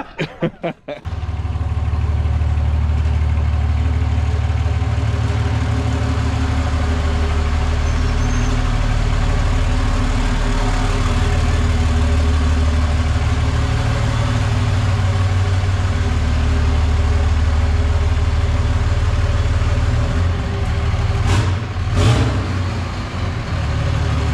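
5.9-litre Cummins inline-six turbo diesel of a 2005 Dodge Ram 2500 idling steadily and loud, its exhaust snapped off about four feet of pipe after the turbo. Two sharp knocks near the end.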